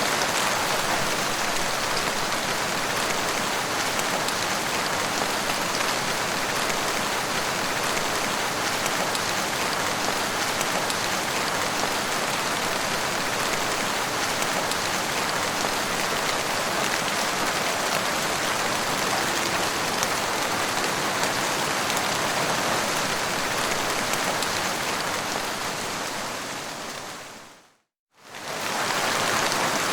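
Steady rain: an even hiss of rainfall with fine scattered drop ticks. Near the end it fades out to a moment of silence and fades straight back in.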